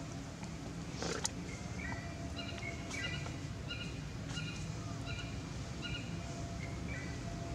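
Short, high chirping calls repeating every second or so over steady outdoor background noise, with two sharp clicks about a second in.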